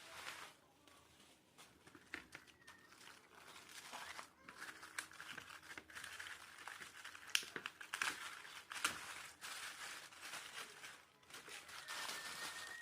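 Rustling and crinkling with scattered small clicks, like hands handling packaging or parts, with a faint thin high tone near the end.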